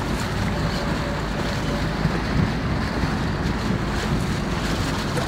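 Steady wind noise buffeting the microphone, a continuous low rumble without pauses.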